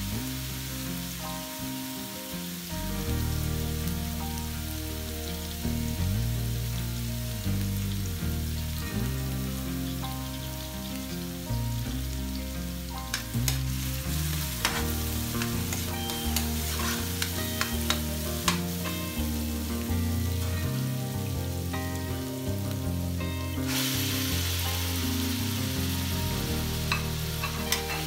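Minced onion and garlic sizzling in hot oil in a metal wok, with a metal spatula scraping and clacking against the pan from about halfway through. Near the end the sizzle jumps louder and brighter as raw chicken pieces hit the oil.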